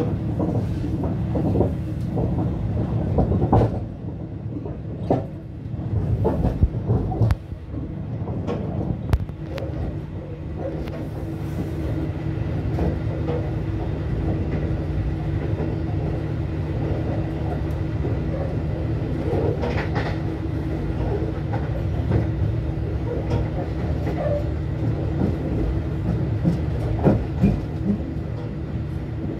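Train running along the line with a steady diesel locomotive engine drone. Wheels clatter and knock over the rails, with irregular clicks thickest in the first ten seconds or so.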